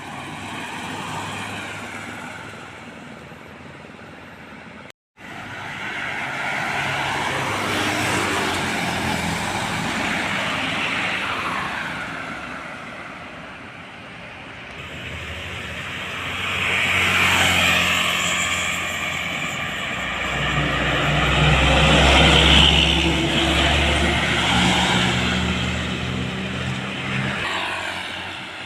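Road traffic passing close by, vehicles going past one after another, each swelling and fading with a gliding pitch. The sound cuts out completely for a moment about five seconds in. The loudest pass, past the middle, is a heavy vehicle with a deep engine drone.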